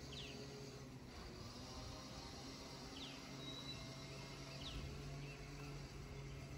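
Faint outdoor ambience of birds: three short, high chirps, a second or more apart, over a steady low hum.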